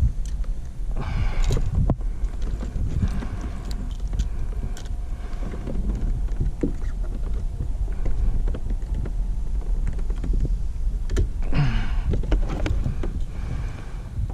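Wind rumbling over the microphone, with scattered knocks and clatter from handling on a kayak. Two brief voice-like sounds come about a second in and near the end.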